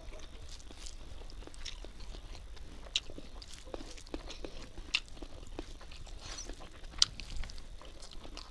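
Close-up chewing and biting of a person eating rice and fried fish by hand: wet mouth sounds with small crunches and a few sharp clicks through the stretch.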